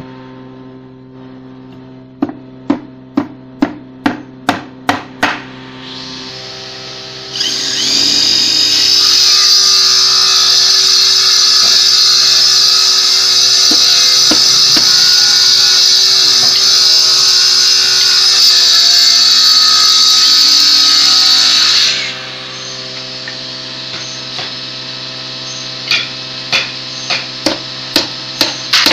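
Quick hammer blows, about nine strikes, then a power tool runs steadily with a high whine for about fifteen seconds and cuts off. The hammering starts again near the end.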